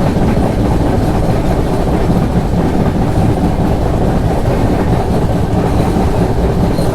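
Mandovi Express passenger train running along the track, heard from on board: steady, loud wheel-on-rail running noise, mostly low in pitch and unbroken.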